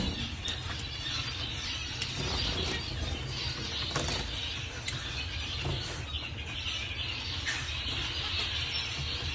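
Mixed aviary of small finches and doves: a dense, steady chorus of high chirping, with scattered short flaps and clicks, over a low steady rumble.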